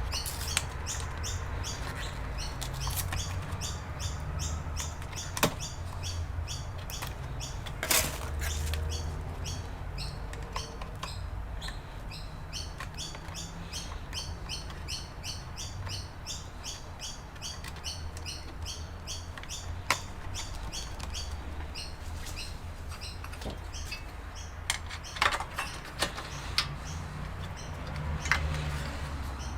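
A steady series of short high chirps, about three a second, pausing briefly midway. A few sharp clicks and knocks from work on the computer come through, over a low steady hum.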